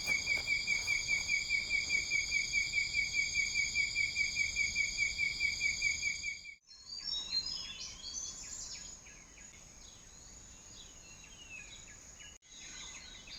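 Night insects calling: a pulsing chirp about six times a second over a steady high drone. It cuts off suddenly about halfway, and birds chirp in scattered calls after it.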